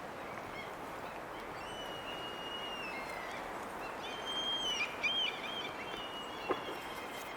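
Songbirds calling in a forest: several drawn-out level whistles, the loudest about five seconds in, over a steady rushing background. A single sharp click near the end.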